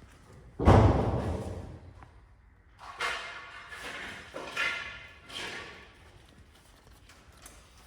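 A heavy thud, sudden and echoing through a large hall, then three shorter, fainter scraping or rustling noises.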